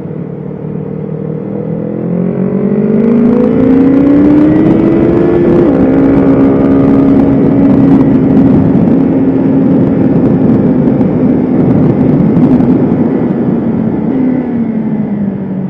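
BMW S1000RR inline-four sport bike engine under hard acceleration: the pitch climbs, dips at a gear change about five and a half seconds in, holds high and steady, then falls as the throttle closes near the end, with wind rush building with speed.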